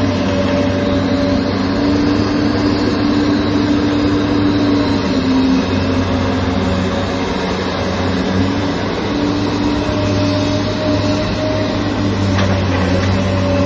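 Excavator's diesel engine running steadily under load, a deep continuous drone with higher tones that fade in and out.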